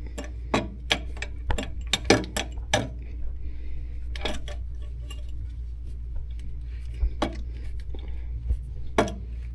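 Hand tools and metal hardware clinking and clicking irregularly as parts are fastened, most densely in the first three seconds and sparser after, over a steady low hum.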